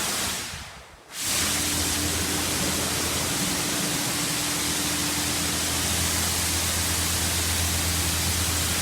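Automatic car wash working over the car, heard from inside the cabin: a steady rush of water spray and brushes over a low machine hum. The sound cuts out briefly just after the start and comes back about a second in.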